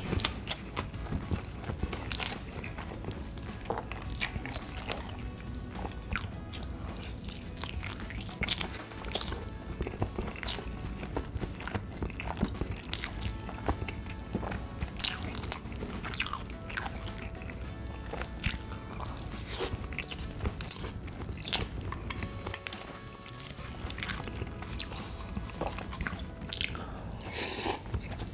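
A person chewing and biting food, with many crisp crunches throughout, over quiet background music.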